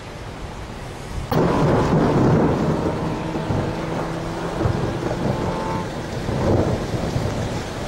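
Thunderclap breaking suddenly about a second in and rolling on as a loud low rumble over steady rain.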